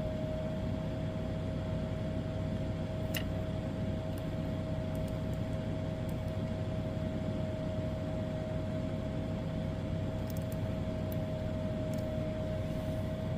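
Steady whirring hiss of a small running motor with a constant mid-pitched whine and low hum, unchanging throughout, with a few faint ticks.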